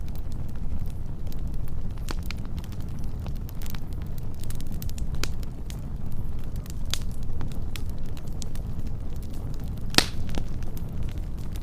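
Wood fire burning with a steady low rumble and scattered crackles and pops, one sharp pop standing out about ten seconds in.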